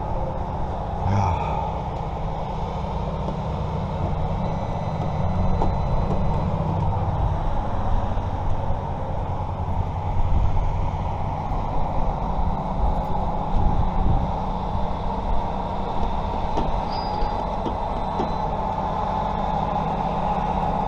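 A vehicle running: a steady low engine and road rumble with no sharp events.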